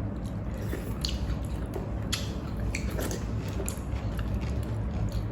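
Close-miked eating sounds of soft maize dhido (corn porridge) being chewed: wet, squishy chewing with short lip smacks every second or so, over a steady low hum.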